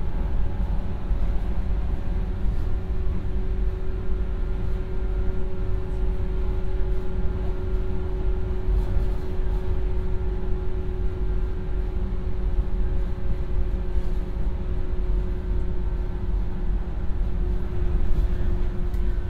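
Running noise inside a JR 115 series electric train at speed: a steady low rumble from the wheels and bogies with a steady hum over it, which dips slightly in pitch near the end.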